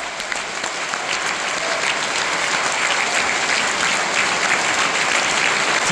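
Concert hall audience applauding, a dense patter of many hands that grows gradually louder.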